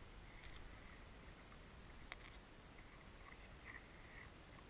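Near silence: faint outdoor air noise with a single soft click about two seconds in.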